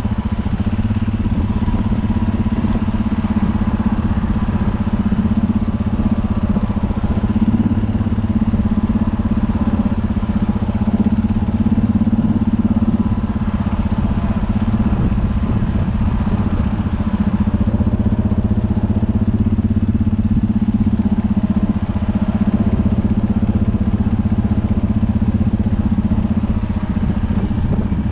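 U650 tractor's four-cylinder diesel engine running steadily at constant speed, with a deep, even drone.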